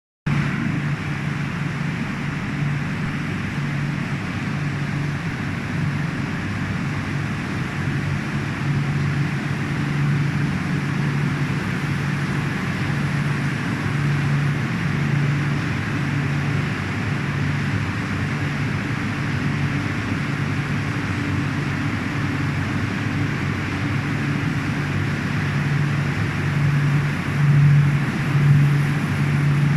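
Hot-melt glue coating machine for edge banding running steadily: a low pulsing hum under a broad mechanical hiss, with a few louder swells near the end.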